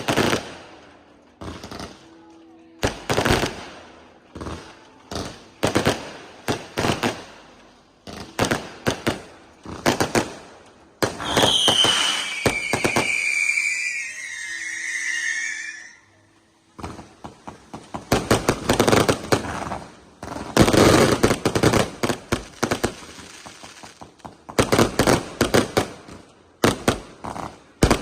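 Small fireworks going off in rapid clusters of bangs and crackles. About eleven seconds in, shrill whistles slide down in pitch for several seconds before the cracking volleys resume.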